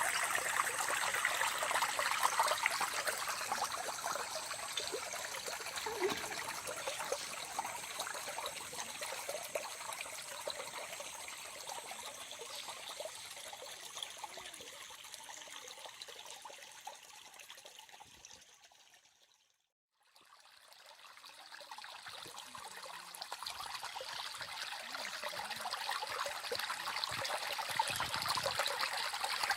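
Small stream running with a steady trickling rush. The sound fades down to silence about two-thirds of the way through, then fades back up.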